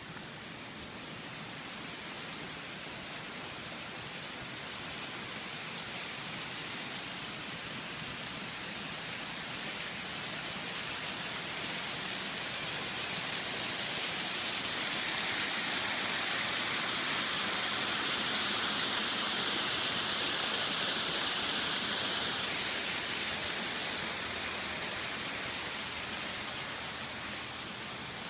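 Waterfall rushing: a steady, even hiss of falling water that swells louder and brighter through the middle, peaks about two-thirds through, then eases back.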